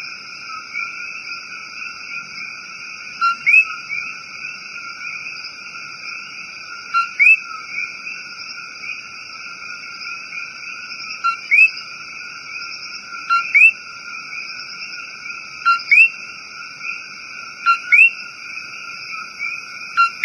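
Common coquí frogs calling: a near frog gives its two-note "co-qui", a short low note then a rising note, about every two to four seconds, over a dense, steady chorus of more distant callers.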